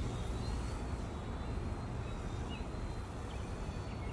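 Steady low rumble of wind on the microphone, with the faint, steady whine of a small RC helicopter's motor and rotor in flight.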